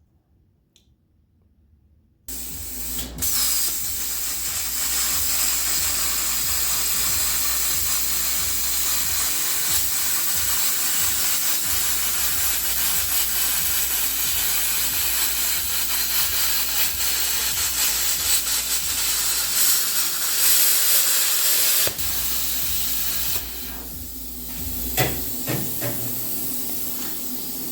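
Yeswelder Cut 65DS plasma cutter cutting steel: a loud, steady hiss with a low hum underneath, starting about two seconds in and easing off to a quieter hiss near the end, with a few clicks.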